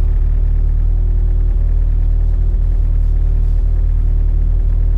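Steady low rumble of a Mitsubishi Lancer Evolution IX's engine idling, heard from inside the cabin.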